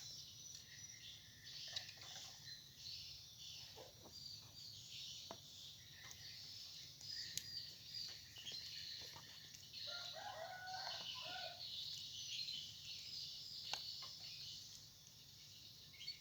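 Faint chirps from small birds throughout, with a rooster crowing in the distance about ten seconds in. A few light clicks are heard over a steady low hum.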